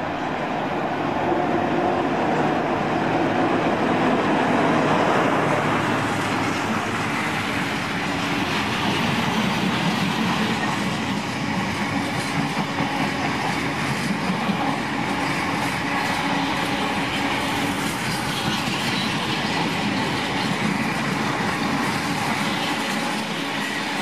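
Diesel freight locomotive approaching and passing, loudest about four to five seconds in. It is followed by a long train of open box wagons rolling steadily past, their wheels rumbling and clattering on the track.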